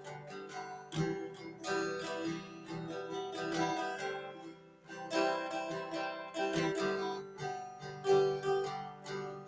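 Background music of plucked acoustic guitar, picked and strummed notes with no singing.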